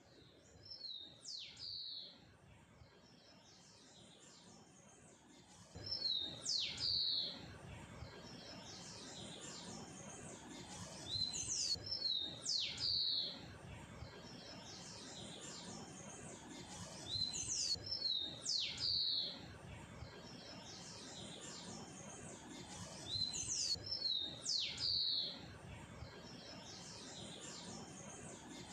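A songbird singing the same short phrase over and over, about every five to six seconds. Each phrase is a couple of sharp, high down-slurred whistles run into a quick chirpy jumble.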